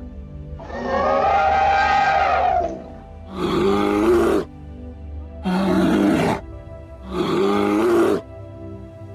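A large animal calling over background music: one long call that rises and falls in pitch, then three shorter calls about two seconds apart.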